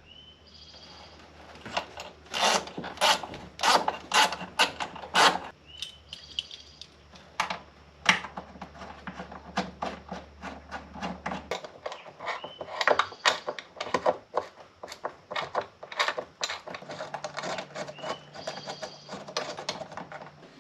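Cabinet door and its clutched lift-up stay being worked by hand: sharp clicks and knocks in quick bunches, with a low steady hum through the first half.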